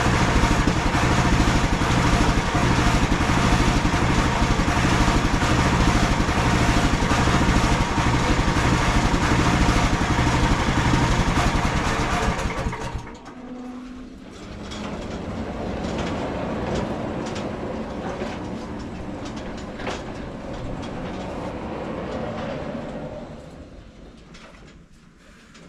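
Engine of a MechMaxx SM32 bandsaw mill running loud and steady, then dropping off sharply about halfway through. A quieter, rough mechanical noise carries on after the drop and fades away near the end.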